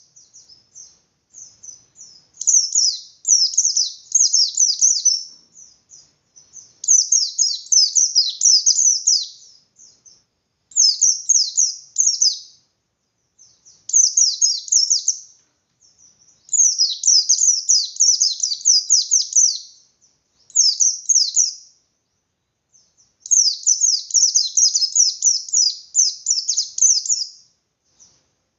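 Pleci bustomi (a white-eye) singing in full ngalas style: phrases of rapid, high, chattering notes about one to three seconds long, repeated after short pauses.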